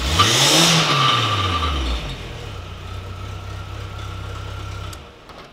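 First-generation Skoda Fabia engine revved once, rising and falling back to idle, with a steady high squealing tone over it. The squeal is not from the multi-belt, and the exhaust is leaking. The engine cuts off about five seconds in.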